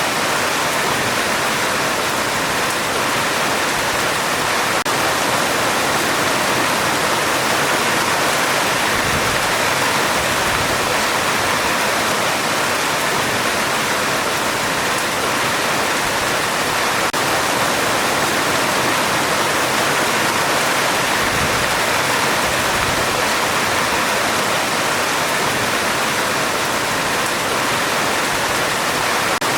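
Heavy rain drumming steadily on a metal roof: a dense, even hiss with no let-up and no thunder.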